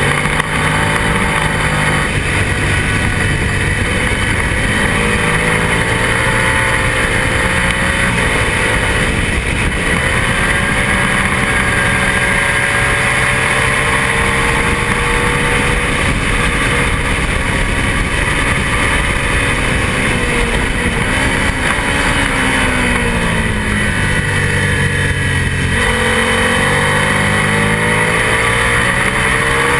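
Twin-cylinder road-racing motorcycle engine at high revs, heard from the bike itself, its pitch climbing and dropping again and again as the rider accelerates, shifts and slows for corners, over a steady rush of wind.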